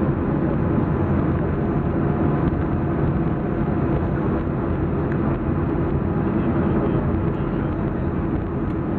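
Steady low rumble inside the cabin of a Boeing 737-400, its CFM56-3 turbofans running at idle as the airliner taxis after landing.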